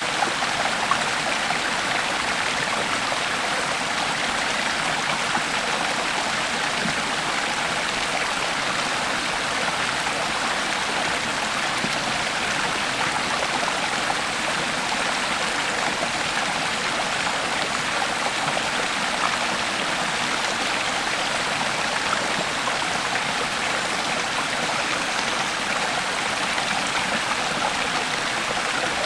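A creek flowing: a steady, even rush of running water with fine splashing detail and no change in strength.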